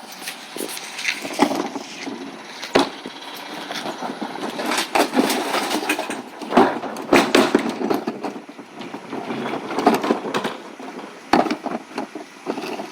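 Irregular knocking and clattering of hard objects, with a sharp bang every second or so and a rattling clatter between them.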